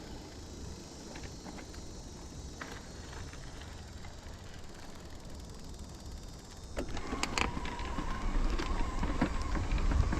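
Riding noise on a Riese & Muller e-bike: low wind and tyre rumble. About seven seconds in it gets louder, with a steady whine and a scatter of clicks and rattles.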